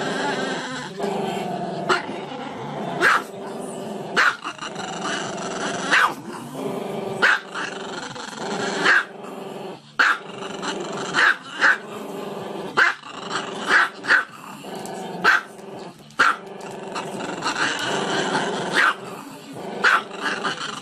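A dog barking sharply about once a second, with drawn-out, pitched vocalizing between the barks.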